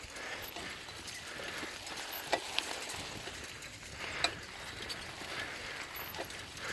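Bicycle being ridden over a path: irregular clicks, knocks and rattles from the bike over a steady rolling hiss.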